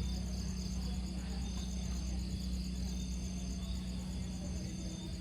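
Jungle insects chirping in a steady, high-pitched pulsing chorus, with a steady low hum underneath.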